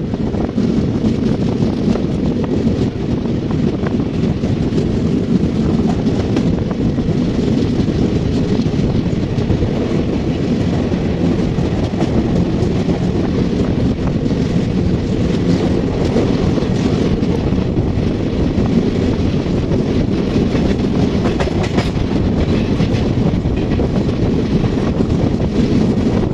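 Begampura Express passenger train running at speed: a steady, loud rumble of wheels on the rails, with occasional clickety-clack from the rail joints.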